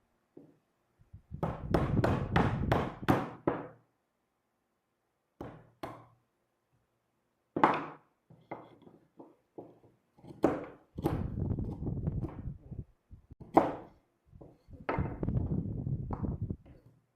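Knocks and thuds on wood, coming in quick runs of several strikes with short gaps between, like wooden parts being tapped or hammered together.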